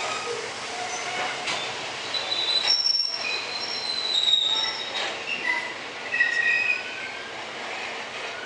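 Train wheels squealing against the rails as a train moves through the station: a run of high, shifting squeals and screeches over a steady rolling rumble, loudest between about two and seven seconds in.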